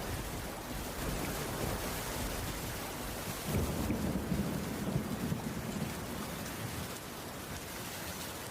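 Heavy rain falling steadily on a cabin's wooden roof. About three and a half seconds in, a low rumble swells up and lasts a couple of seconds.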